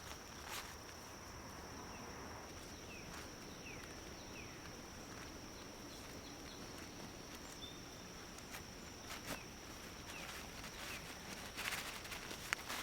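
Outdoor ambience with insects droning a steady high-pitched note. Short falling bird chirps and a few light clicks and knocks sound here and there, more of them near the end.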